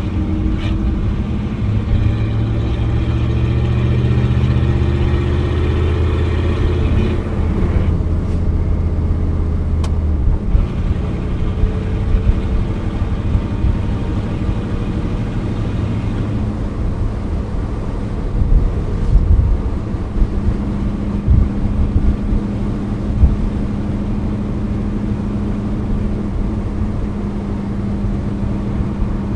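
1987 Pontiac Firebird Trans Am's 5.7-litre TPI V8 heard from inside the cabin, accelerating with a rising engine note for about seven seconds. The note then drops and settles into a steady cruise, with tyre and road noise.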